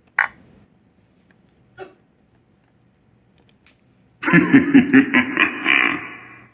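A laugh of about two seconds in rapid pulses, coming near the end. Before it there is a sharp click and, about a second and a half later, a soft knock.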